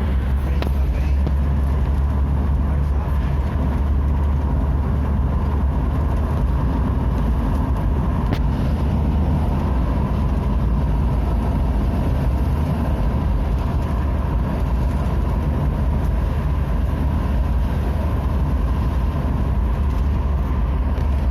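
Car driving along a road: a steady low rumble of engine and tyres that holds even throughout.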